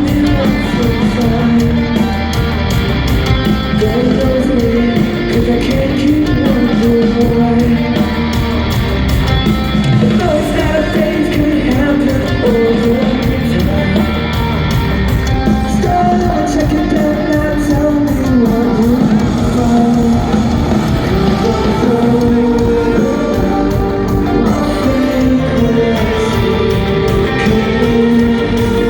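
Live rock band playing loudly: electric guitars and a sung lead vocal, the music running on without a break.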